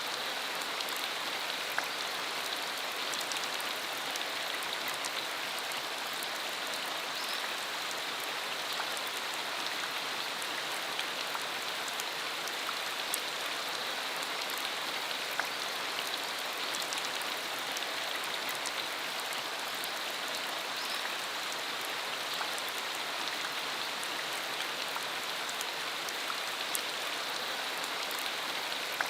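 Steady rain falling on a rural road, an even hiss with many scattered sharp drop ticks.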